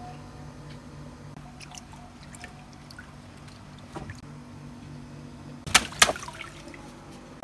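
Water trickling quietly over a steady low hum, with faint scattered ticks. Two sharp knocks come close together about six seconds in.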